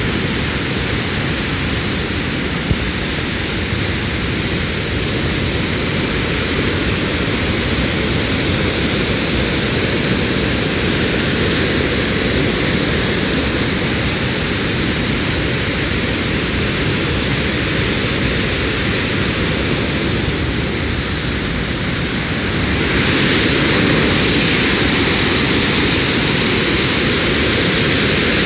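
Heavy floodwater rushing out of Hiyoshi Dam after typhoon rain, a dense and steady rushing noise. It becomes louder and hissier about 23 seconds in.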